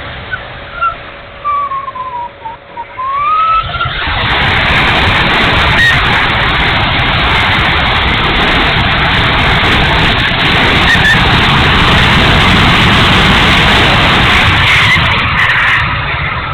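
Electric ducted fan of an E-flite F-16 70mm RC jet in flight: a faint whine that dips in pitch and rises again, then a loud steady rush of fan and air noise from about four seconds in, easing off near the end.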